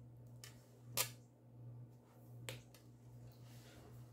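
Three small sharp clicks of craft tools and embellishments handled on a tabletop, the loudest about a second in, over a low steady hum.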